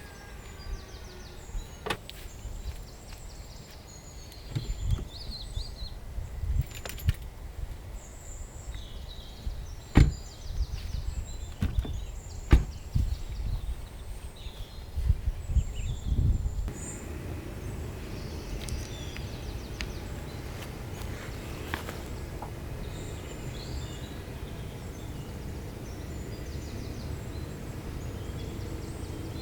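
A series of sharp knocks and thuds over a low rumble, the loudest two near the middle. About two-thirds of the way through they stop and an even, steady rumble goes on.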